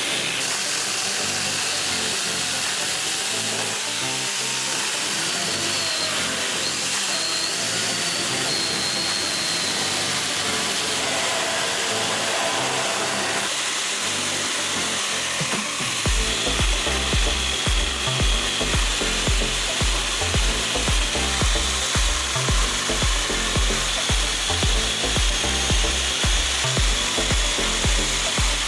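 A power tool grinding and sanding wood with a steady hissing noise and a faint high whine. Background music plays under it, and its steady bass beat comes in a little past halfway.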